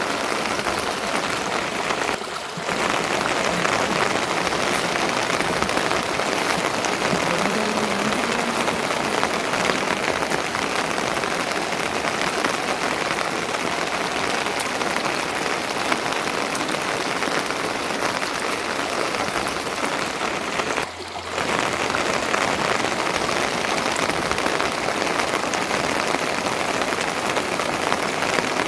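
Heavy rain falling steadily and pattering on surfaces, as a dense even hiss that drops out briefly twice.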